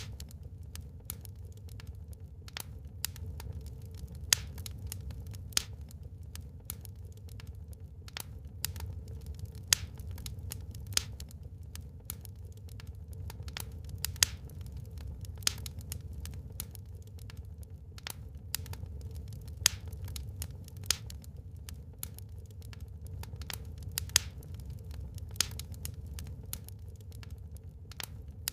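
Burning wood in a fireplace crackling: irregular sharp pops and snaps, a few a second with an occasional louder one, over a low steady rumble.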